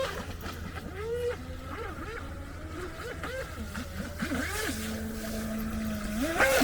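Electric motor of a radio-controlled model jet ski whining, its pitch rising and falling over and over as the throttle is worked. Near the end it holds one steady lower note for about a second and a half, then rises again.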